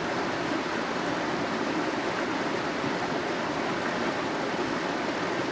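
Creek water running steadily, an even, constant rush with no change.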